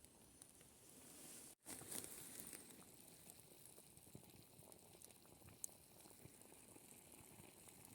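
Faint bubbling and crackle of an uncovered clay pot of meat and vegetables simmering at the boil over coals. The sound drops out for an instant about a second and a half in, then comes back a little louder.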